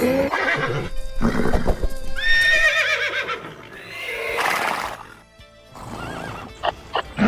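A horse whinnying: a wavering, pitched neigh about two seconds in, over background music.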